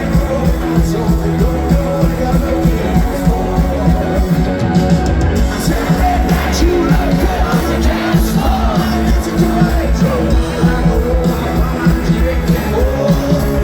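Loud live rock music: a band playing with singing.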